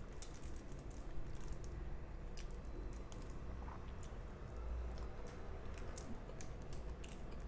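Close-up chewing of rice and fish, with many short sharp mouth clicks and smacks.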